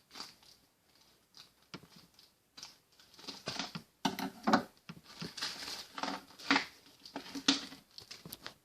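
Small plastic party poppers clicking and clattering as they are handled and sorted, with some plastic-bag rustling; scattered light taps that grow busier about three seconds in.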